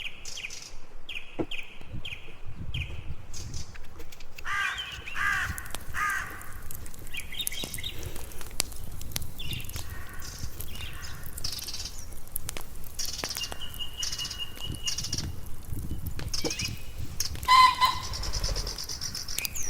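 Birds calling and chirping in a string of short repeated calls, with a few harsher, cawing calls about five seconds in, and scattered light clicks and knocks.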